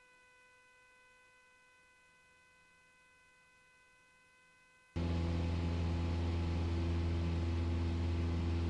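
Near silence with a faint steady electronic whine, then about five seconds in the steady low drone of a Piper Warrior II's four-cylinder Lycoming engine in the climb cuts in abruptly, heard through the aircraft intercom.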